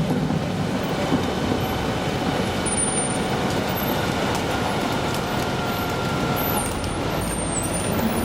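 A garbage truck running, a steady mechanical rumble with a faint steady whine over it.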